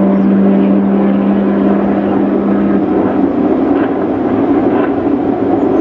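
MotoGP safety car engine running at steady revs. Its note holds, then fades out about three seconds in, leaving a steady rush of noise.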